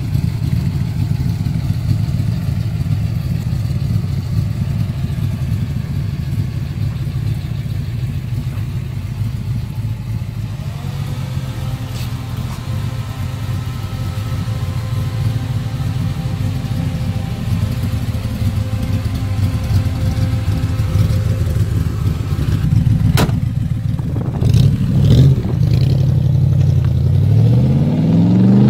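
1965 Chevrolet Corvette coupe's V8 idling steadily. About 23 seconds in, the sound breaks off, then the engine revs and the car accelerates away, its pitch rising near the end.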